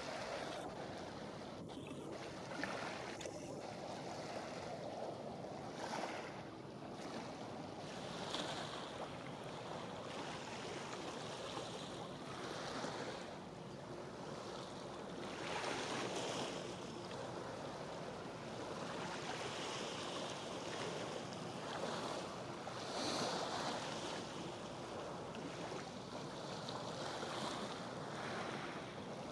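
Sea waves washing in with wind: a steady rushing noise that swells every few seconds.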